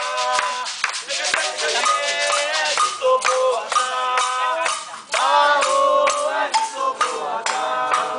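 Voices singing a ritual chant, with a hand rattle shaken in rhythm.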